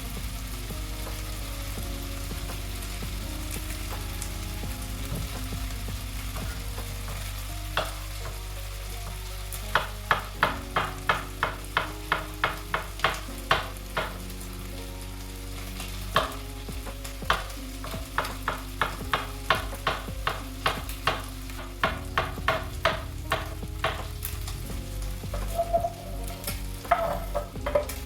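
Food sizzling in a frying pan while a utensil stirs it. From about ten seconds in, the utensil strikes and scrapes the pan in quick runs of strokes, about three a second.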